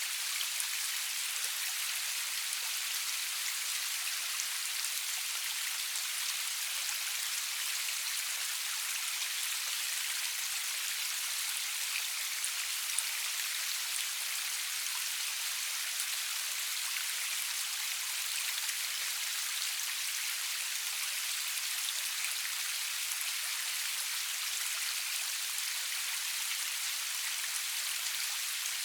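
Steady rain falling, an even high hiss of many drops with small scattered drop ticks and no thunder.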